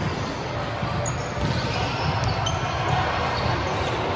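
Indoor volleyball game: ball strikes and bounces over a steady din of a busy gym hall, with a few short high squeaks.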